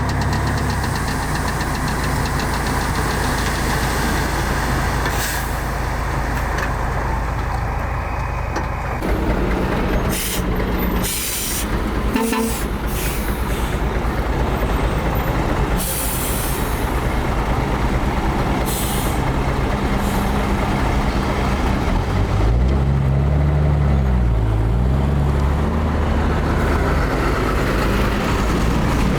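Heavy diesel earthmoving machinery running steadily, with a few short sharp noises midway and the engine revving up and down near the end.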